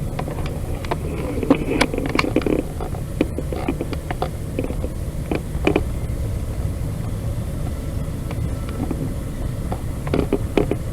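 Freight cars rolling past: a steady low rumble with irregular clicks and clanks from the wheels and couplings.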